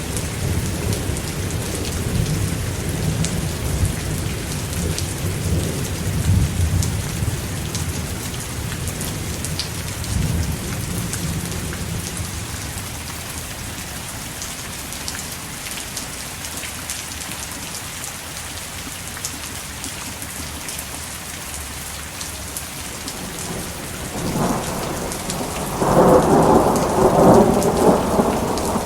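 Thunderstorm: steady heavy rain hissing with fine droplet ticks, while thunder rumbles low for the first ten seconds or so and dies away. Near the end a louder peal of thunder rolls in for a few seconds.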